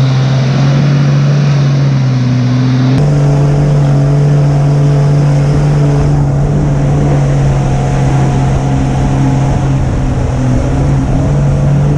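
Vehicle engine running hard at steady high revs: a loud, constant drone that holds one pitch, with an abrupt jump about three seconds in.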